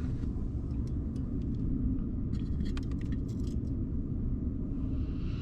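Steady low rumble, with a scatter of light clicks and taps between about one and three and a half seconds in.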